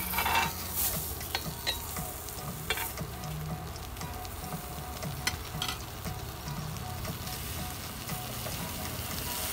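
A slice of bologna sizzling in butter in a cast-iron skillet, a steady sizzle with scattered pops and crackles. Right at the start there is a brief louder scrape as metal tongs turn the slice over.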